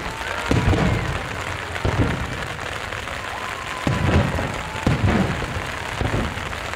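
Fireworks shells bursting overhead: several deep booms, roughly one a second, over a steady hiss of rain.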